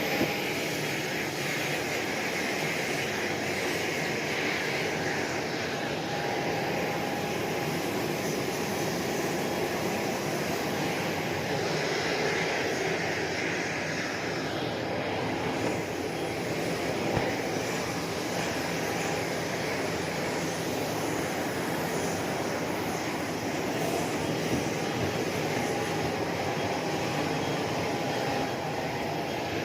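Steady jet aircraft noise on an airport apron: an even, unbroken rush with a faint steady whine.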